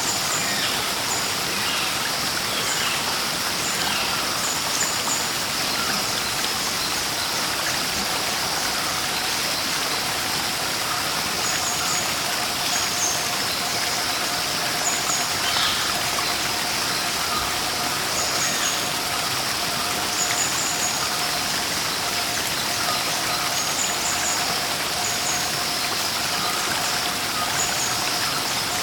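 Steady rush of a waterfall and stream, with short high bird chirps coming every few seconds.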